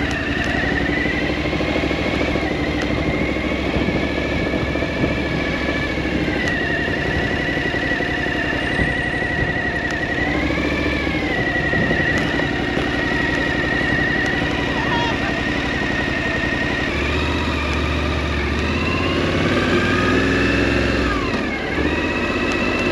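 Motorcycle running under way at a steady speed, with a high whine that holds its pitch, wavers briefly about halfway, and dips sharply then rises again near the end.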